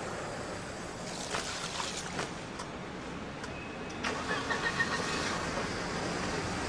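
A motor vehicle engine running amid street noise, getting louder about four seconds in.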